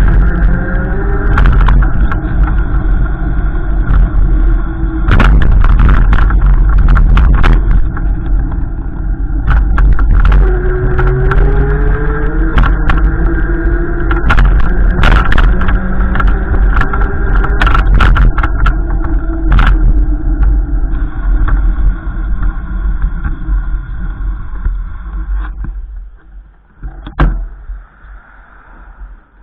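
A motor vehicle running, its engine pitch rising and falling, over a heavy low rumble with frequent crackles; the sound drops away sharply near the end.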